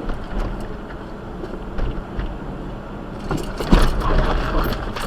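Car interior and road noise of a vehicle driving, with small clicks and rattles; a sharp knock comes about three and a half seconds in and the noise grows louder near the end.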